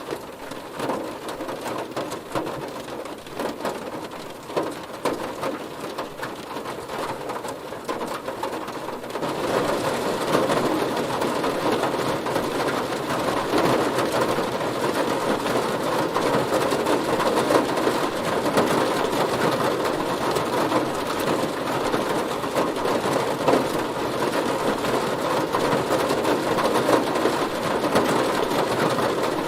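Heavy rain hitting a car, a steady hiss of drops that grows denser and louder about nine seconds in and then holds.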